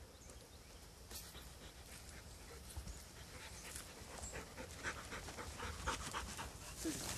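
Bird dog panting during a quail hunt, faint and getting slowly louder.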